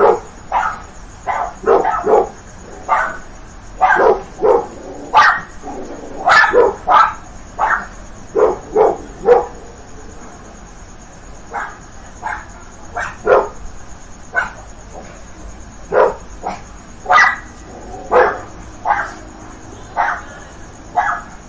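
Big dogs barking in short, loud, irregular volleys, with a lull of about two seconds near the middle.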